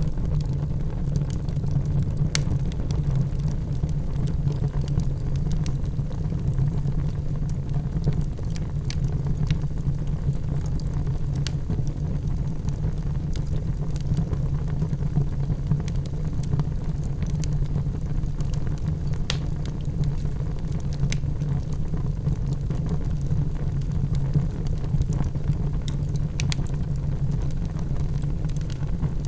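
Wood fire burning in a fireplace: a steady low rumble of the flames with scattered, irregular crackles and pops.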